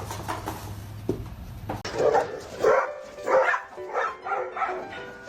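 A dog barking, about half a dozen short barks starting about two seconds in, after a steady low hum.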